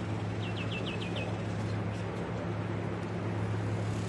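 A bird calls once: a quick run of five short, falling chirps about half a second in. Under it runs a steady low machine hum.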